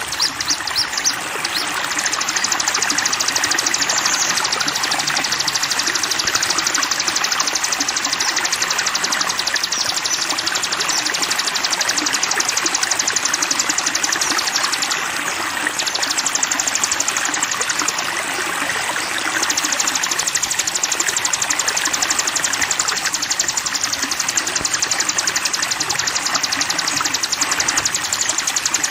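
Running water with a songbird's very fast, high-pitched trill held almost without a break, pausing briefly twice past the middle.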